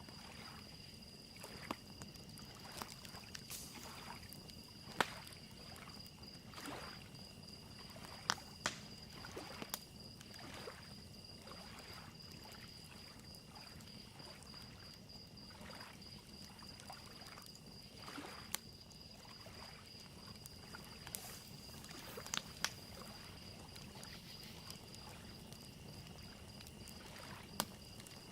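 Water lapping against a shoreline, a wood fire crackling with scattered sharp pops, and crickets chirping in a steady high trill, all faint.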